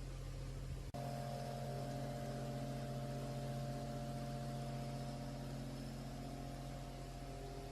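Electric fan motor running with a steady hum, broken by a brief dropout about a second in.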